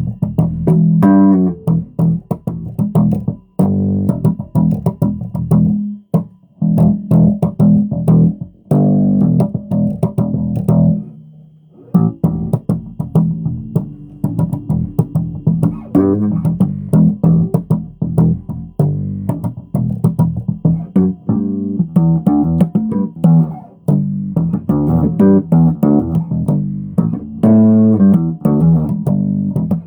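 Bass guitar playing a run of plucked notes, with short breaks about six and twelve seconds in.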